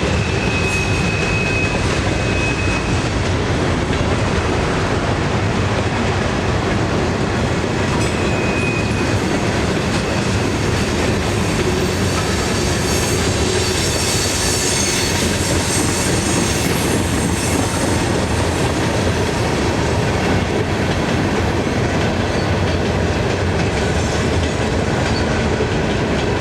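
Norfolk Southern train's cars rolling past, a steady loud rumble and clatter of wheels on the rails, with brief high wheel squeals about a second in and again about eight seconds in.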